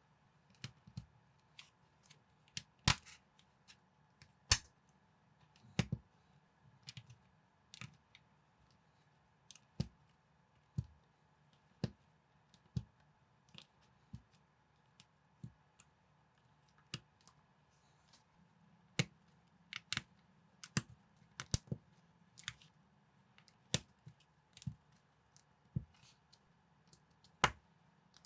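Plastic building bricks clicking as they are picked up, handled and snapped together, in sharp separate clicks at an irregular pace of roughly one a second, over a faint low hum.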